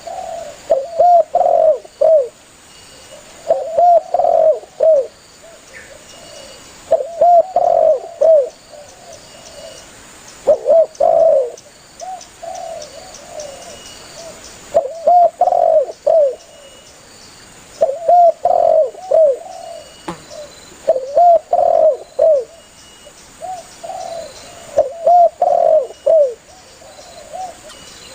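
Spotted dove cooing: repeated bouts of a few low, arched coos, one bout every three seconds or so.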